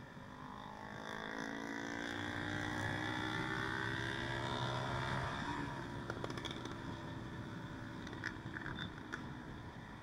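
Motorcycle engine pulling under throttle, its pitch rising steadily for several seconds, then dropping off about halfway through as the sound turns rougher, with a few light ticks.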